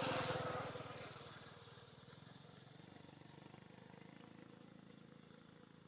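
A passing vehicle's engine, loudest right at the start and fading away over the next two seconds, followed by a fainter steady engine pulsing that continues.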